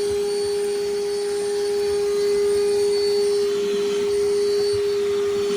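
Vacuum running steadily with a long wand, its motor holding one constant whining pitch.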